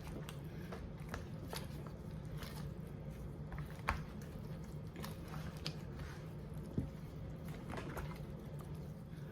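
Faint kitchen handling noises while pineapple juice goes onto seasoned chicken legs: scattered small clicks and soft crackles over a steady low hum, with a couple of slightly sharper ticks midway.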